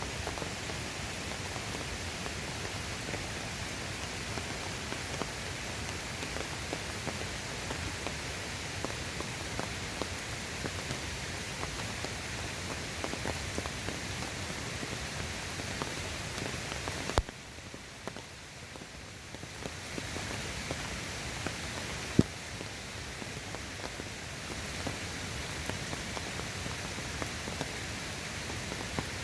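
Steady rain falling on a surface, with many individual drops ticking through it. A little past halfway it cuts sharply quieter for a few seconds, then comes back, and a single sharp tap stands out later.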